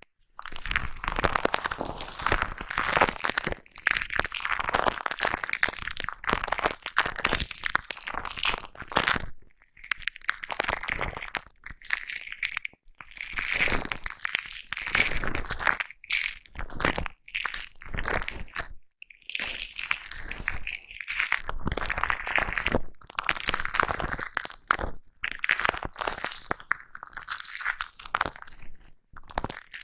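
Foam brushed and rubbed directly against a microphone, giving dense scratchy, crunchy strokes in irregular bursts with a few brief pauses.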